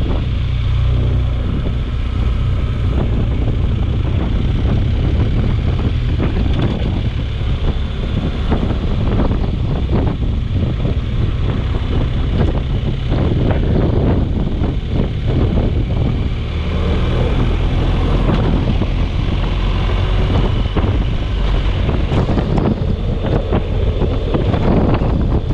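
Storm wind buffeting the microphone: a loud, continuous low rumble with irregular gusty crackles.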